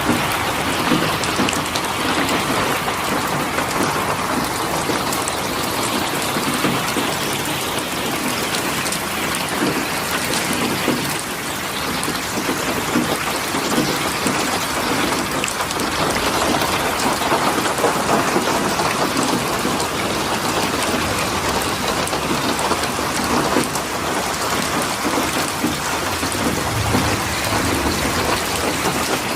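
Steady, dense rain falling and hissing evenly, with a brief low rumble near the end.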